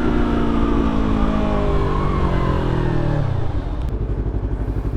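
Yamaha R3's parallel-twin engine with its revs falling steadily as the bike slows, then settling into a low, pulsing idle about three and a half seconds in.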